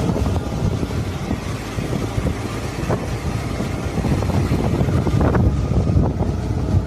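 Swamp boat driven by a VAZ-2110 four-cylinder petrol car engine running steadily, with wind buffeting the microphone.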